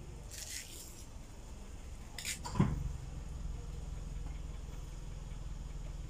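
Car engine idling with a steady low hum. There are brief rustles near the start and about two seconds in, and a single sharp knock a little after.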